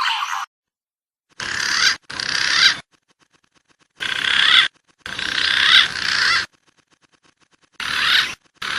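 Recorded wild pigeon lure calls: about six short bursts of wavering whistled notes, each cut off abruptly with brief silences between.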